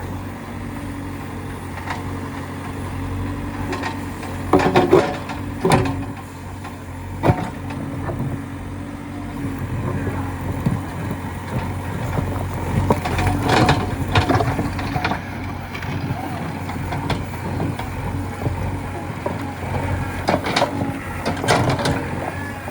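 Heavy diesel machinery engine running steadily, with a few loud knocks and clanks: three about five to seven seconds in, more around thirteen seconds and near the end.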